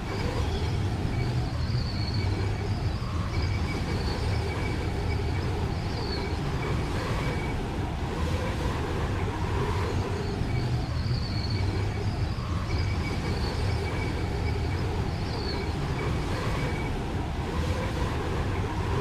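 Steady, low rumbling wind noise with a faint wavering whistle above it.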